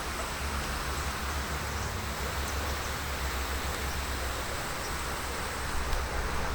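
Steady rushing noise of a bicycle ride: the tyres rolling on the road and the air moving past the binaural microphones, with a low rumble underneath and a couple of faint clicks near the end.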